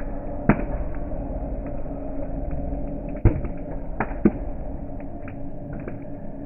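Campfire burning with a steady low rumble, crackling with a few sharp pops of the burning wood, the loudest a little over three seconds in.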